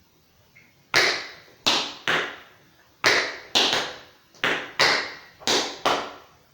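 Tap shoes' metal taps striking a hard floor in a step pattern: about ten sharp, ringing clicks in uneven groups, beginning about a second in.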